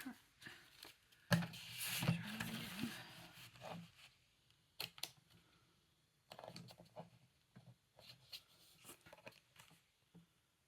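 A small paper cutter's blade drawn through thick paper, a scraping, tearing cut lasting about two seconds from about a second in. It is followed by a couple of sharp clicks and softer paper-handling rustles and clicks.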